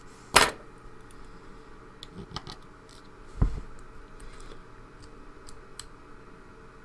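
Small metal clicks and taps of a pin tumbler lock being taken apart, its pins and springs handled and dropped one by one. A sharp click about half a second in is the loudest, and a dull knock comes about three and a half seconds in.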